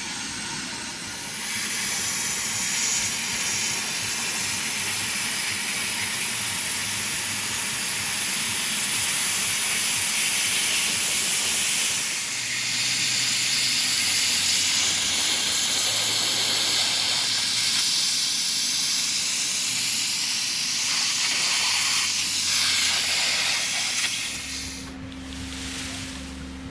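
High-pressure water spraying onto a car at a car wash: a steady hissing rush that shifts as the spray moves, falling away near the end, where a low steady hum remains.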